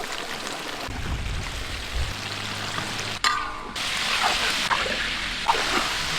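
Flour-and-egg-coated chicken pieces deep-frying in hot oil, a steady sizzle. The sound changes abruptly a little past three seconds in.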